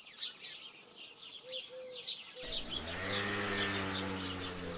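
Small birds chirping over and over in quick, short, high calls. About halfway in, a low steady drone comes in beneath them.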